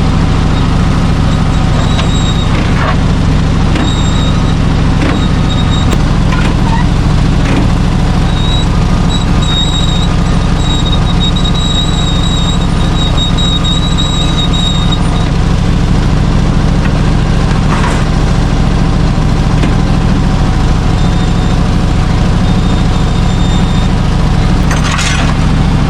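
Chevrolet C60 truck engine running steadily, with a thin high squeal coming and going about a third of the way in and a few short clicks.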